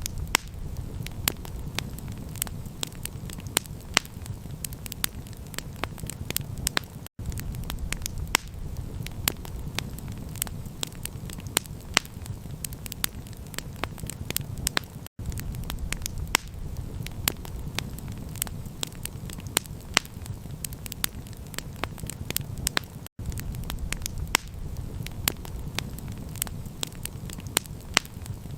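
Campfire crackling: many sharp pops and snaps over a steady low rumble. The sound cuts out for an instant about every eight seconds.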